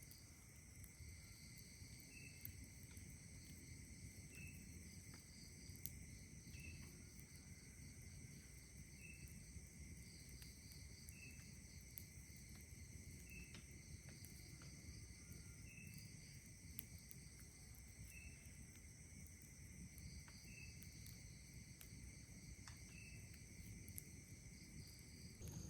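Chorus of night insects such as crickets trilling steadily at several pitches, with one short chirp repeating about every two seconds and a pulsing buzz that comes and goes higher up. Faint scattered ticks sound over a low background hiss.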